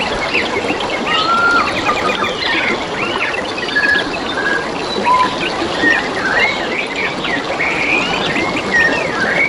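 Several forest songbirds chirping and whistling in quick, overlapping phrases over the steady babbling of flowing water.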